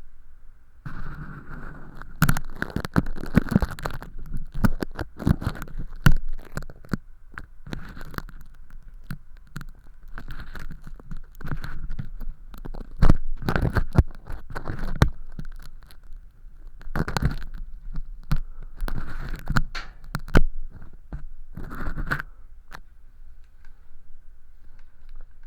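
Ear pick scratching and scraping inside a silicone ear model's canal, lifting thin skin-like fake earwax, in irregular crackly scratches and taps.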